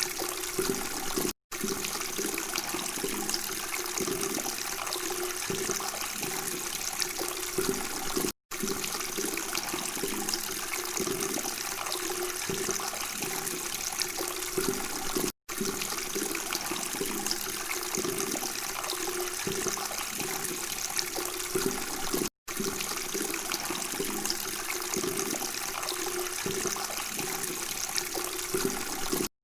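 Running water babbling steadily, cutting out to silence for a split second about every seven seconds.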